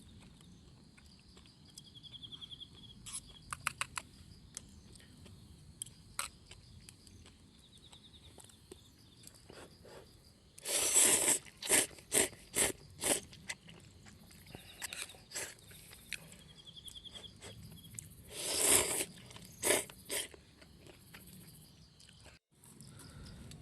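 A run of loud, sharp crunching noises in two clusters, about ten seconds in and again about eight seconds later, over faint outdoor background with scattered clicks and a few short high trills.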